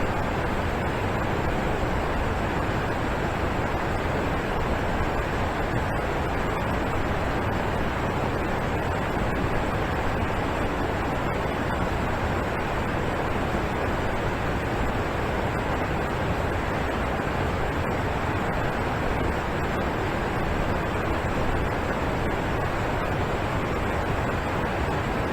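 Mountain waterfall pouring steadily: an unbroken rush of falling water.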